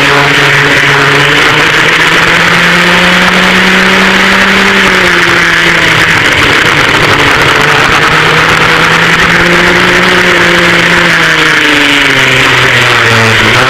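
Twin engines of a vintage dual rear-engine racing kart at race speed, heard onboard. The engine pitch climbs for the first few seconds and falls about five seconds in, then climbs again and falls near the end.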